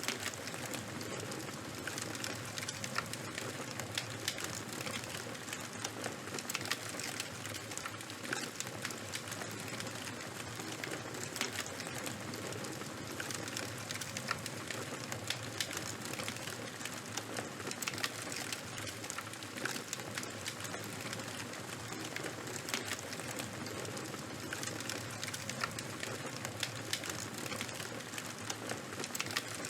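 Charcoal and wood fire crackling: a steady hiss dotted with many small, irregular pops and snaps.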